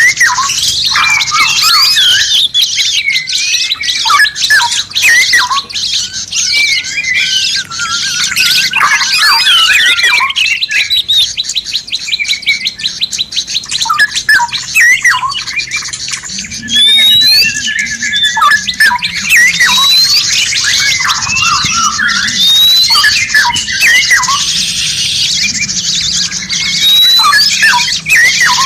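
Recorded songbirds singing densely, a mix of chirps, squawks and whistles, with a fast trill about a third of the way in and short rising whistles repeated in the second half, over a steady high hiss.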